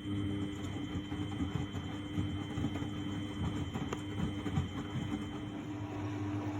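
1999 Miele Novotronic W828 front-loading washing machine running a cotton 60 °C wash: a steady mechanical hum with a faint high whine over it.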